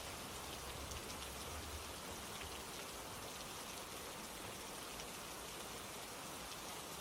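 Steady rain falling, an even hiss with faint ticks of individual drops, and a faint low rumble in the first couple of seconds.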